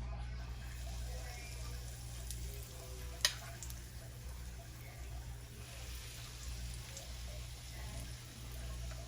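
Batter fritters frying in hot oil: a faint, steady sizzle over a low steady hum, with one sharp click about three seconds in.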